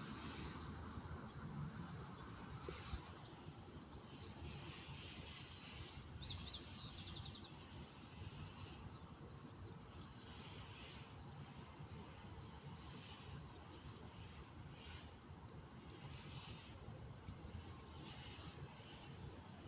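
Small birds chirping: many short, high chirps scattered throughout, with a brighter rapid trill about five to seven seconds in, over faint outdoor background noise.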